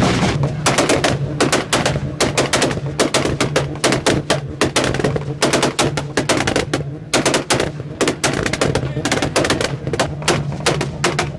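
Modified Mark 4 Toyota Supra's straight-six held at steady revs while its exhaust crackles and bangs in a rapid, irregular volley of sharp pops, like gunfire.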